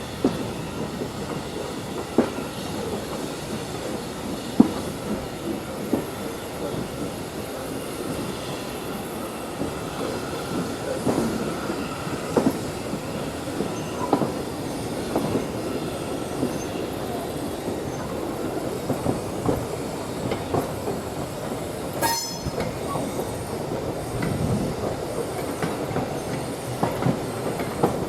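Railway carriages rolling past on a heritage line, wheels clicking and knocking over the rail joints with a steady rumble and a faint squeal, and one sharp clack about three-quarters of the way through.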